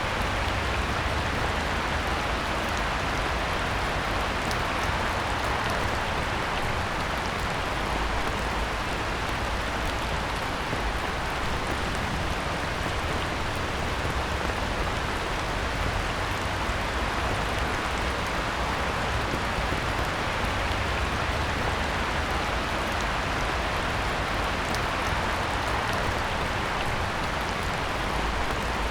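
Heavy rain falling steadily on a pond: a dense, even hiss of rain on water, with scattered single drops ticking through it.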